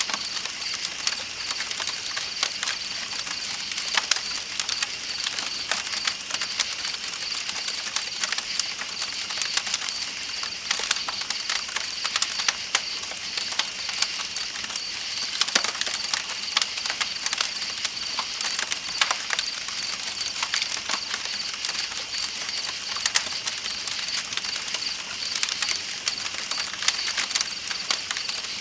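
Campfire crackling with frequent sharp pops, over a steady high chirring of night insects and the even rush of a flowing river.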